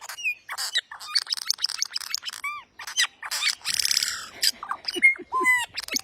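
A bird calling very loudly: a quick run of chirps and clicks, a harsh squawk about four seconds in, then whistled notes that slide up and down in pitch.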